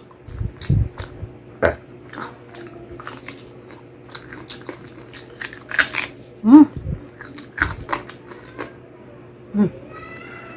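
Close-miked eating of crispy pata (deep-fried pork leg): biting meat and skin off the bone and chewing, with wet clicking and smacking mouth sounds.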